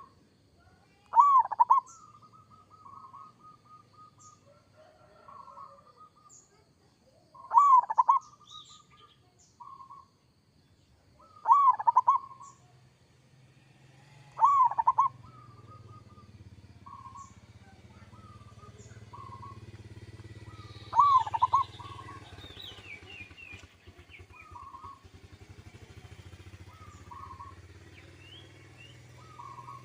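Zebra dove (perkutut) cooing: five loud phrases a few seconds apart, each a short note bending up and down, followed by a string of softer, shorter coos. Faint high chirps of small birds and a low hum sit underneath.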